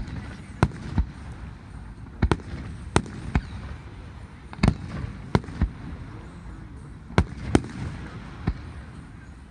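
Fireworks shells bursting overhead: about a dozen sharp bangs at irregular intervals, some in quick pairs.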